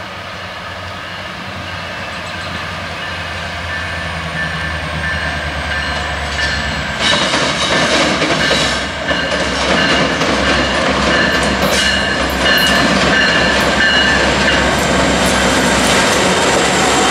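Diesel freight locomotives approaching and rolling past, engines running steadily as the sound grows louder. About seven seconds in it jumps to a louder, closer pass with the clicking of wheels over the rail joints.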